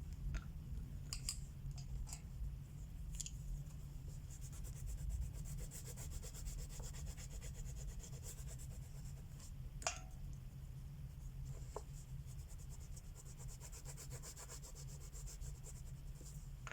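Wax crayons rubbing back and forth on coloring-book paper in soft, scratchy strokes, with a few light ticks, the sharpest about two-thirds through, over a low steady hum.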